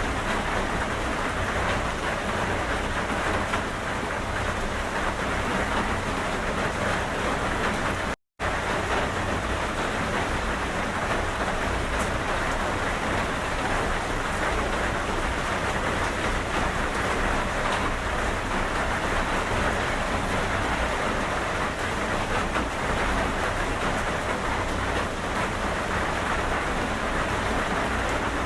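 Steady, heavy rain falling on a surface, an even hiss with no pauses. About eight seconds in, the sound cuts out completely for a fraction of a second and then resumes.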